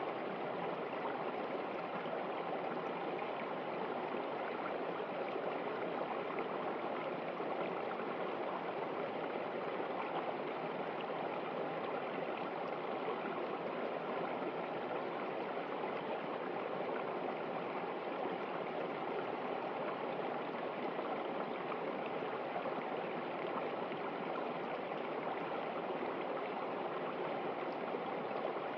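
A river running over rocks: steady rushing and gurgling water with no breaks.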